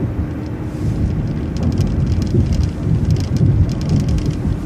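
Transit bus driving at road speed, heard from inside the cabin: a deep engine and road rumble under a faint steady hum, with small rattles and clicks.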